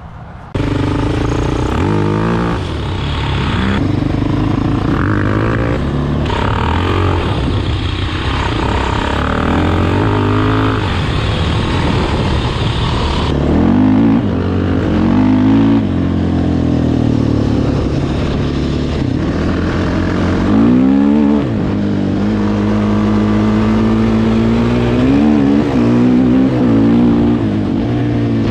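Single-cylinder 450 cc four-stroke off-road engine revving hard, its pitch climbing and dropping again and again as it accelerates and comes off the throttle. It starts suddenly about half a second in.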